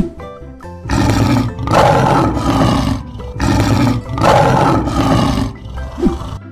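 Lion roaring twice, each roar about two seconds long, over background music.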